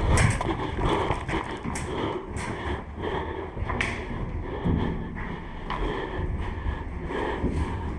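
Footsteps and gear knocking and rattling close to the microphone as an airsoft player moves on foot, with irregular thuds and a few sharp clicks.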